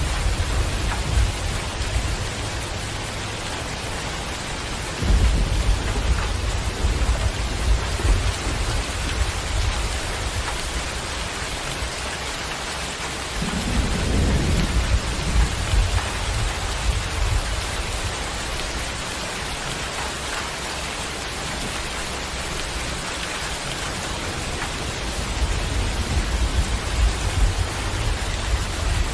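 Steady heavy rain falling, with low rumbles of thunder swelling and fading several times.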